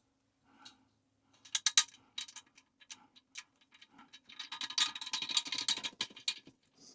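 Small hardware clicking and rattling as a washer and nut are fitted onto a toilet tank bolt: scattered sharp ticks from about a second and a half in, then a dense run of rapid clicking for about two seconds near the end.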